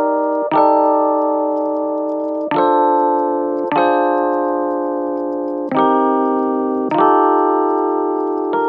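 Slow piano-style chords, struck about every one to two seconds, each ringing out and fading before the next.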